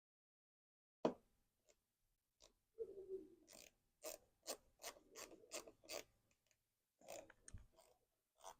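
Faint, quick clicks of a hand ratchet turning a Torx screw, about three to four a second, with a single sharper click about a second in.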